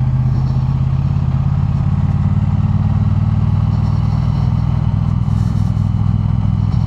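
Triumph Bonneville T100 parallel-twin engine running steadily while the motorcycle is ridden along the road at an even pace.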